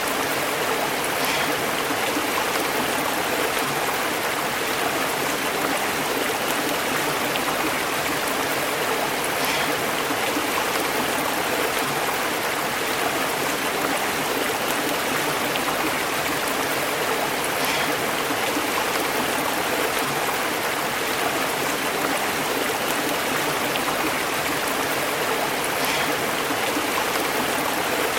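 Stream of water running over rocks: a steady, unbroken burbling and bubbling.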